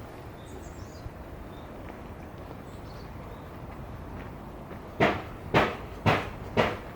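A steady low background rumble with a few faint high chirps, then, about five seconds in, four heavy thumps about half a second apart.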